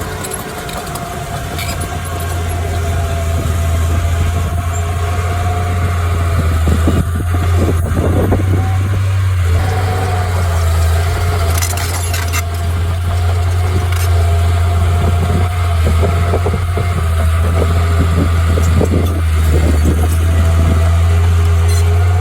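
Heavy earthmoving machine's engine running steadily, with a low drone and a steady higher whine. There is some clatter and knocking about a third of the way in and again around the middle.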